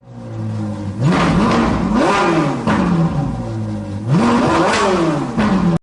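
Car engine idling, then revved twice, the pitch climbing and falling back each time; it cuts off suddenly at the end.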